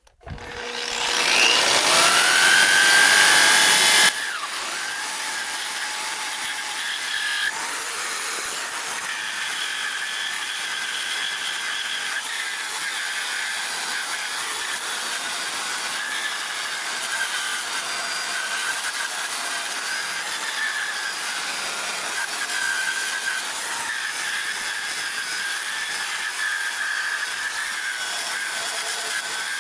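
Electric burnishing tool starting and spinning up with a rising whine, then running steadily from about four seconds in as it strips paint off the truck's sheet metal.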